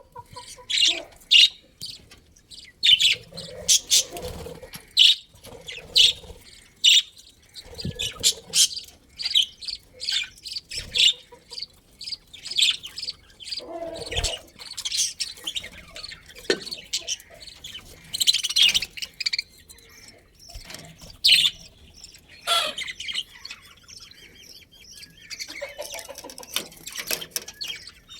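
Budgerigars chirping continuously, many short high chirps from several birds overlapping.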